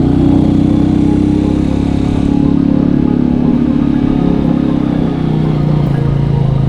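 Motorcycle engine running steadily under way, its pitch shifting slightly.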